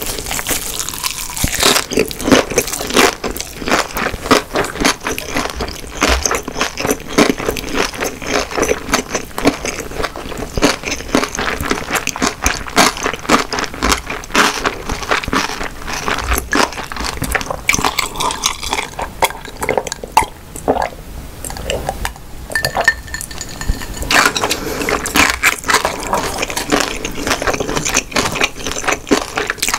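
Close-miked chewing: wet, sticky mouth sounds and smacking in quick clicks, as a mouthful of Korean street snack food is eaten.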